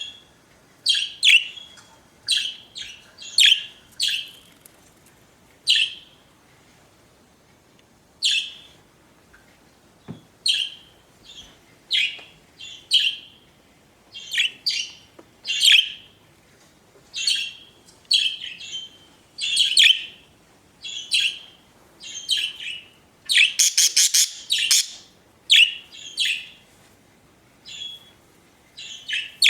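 Pet budgerigars chirping in short, high separate calls, about one or two a second. About three-quarters of the way through there is a quick run of rapid repeated notes.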